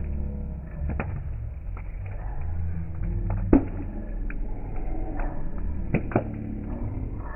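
Campfire burning with a low steady rumble and four sharp pops of crackling wood, the loudest about halfway through and two close together near the end.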